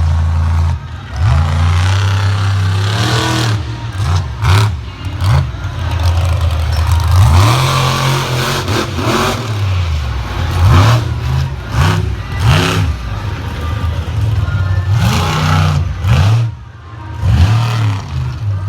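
Monster truck's big engine revving hard again and again, its pitch surging up and dropping back every second or two, with several sharp bangs along the way.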